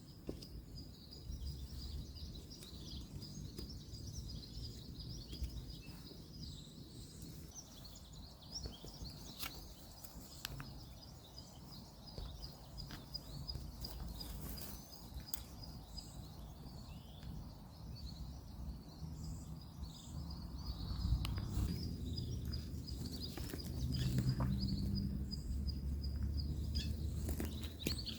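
Outdoor woodland ambience: a steady high trill runs almost throughout, with scattered small clicks. A low rumble of distant road traffic swells in the last third.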